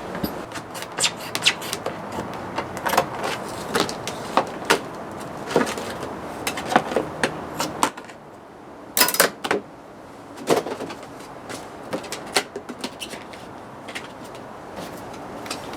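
Tools and metal motorcycle parts being handled at a workbench: irregular clicks and knocks, with a short hissing burst about nine seconds in.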